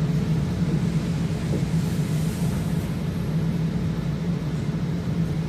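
Steady vehicle rumble with a constant low hum and an even hiss.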